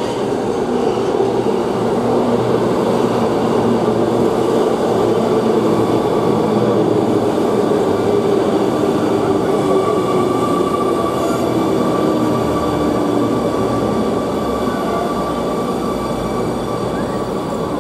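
Rail vehicle running on its track: a steady rumble with an electric motor whine that slowly falls in pitch through the middle.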